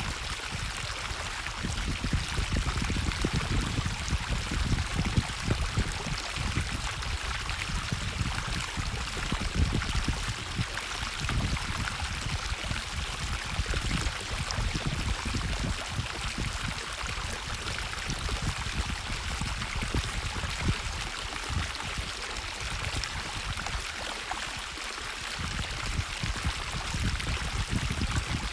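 Natural stream of running water, a steady rushing and splashing with an uneven low rumble underneath.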